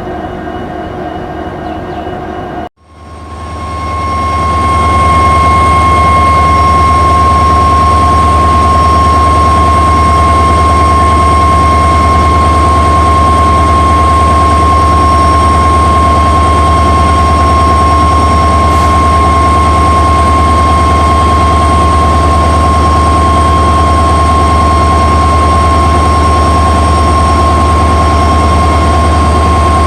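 WDP4D diesel-electric locomotive, with its EMD 16-cylinder 710 two-stroke engine, running steadily with a deep hum and a steady high whine. The sound cuts out suddenly about three seconds in. It then fades back up louder within a couple of seconds.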